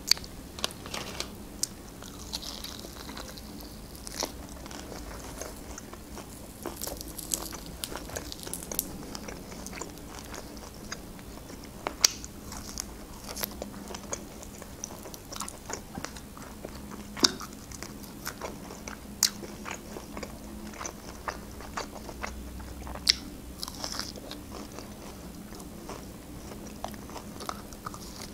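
Close-miked chewing and biting of grilled meat: wet mouth sounds with many sharp clicks and smacks, a few of them much louder than the rest.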